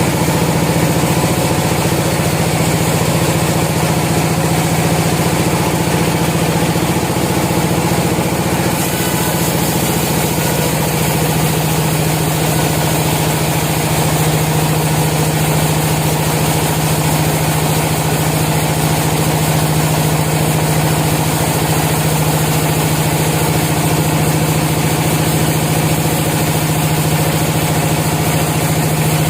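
Sawmill machinery running steadily: an engine or motor holding one speed with a constant low hum and no breaks.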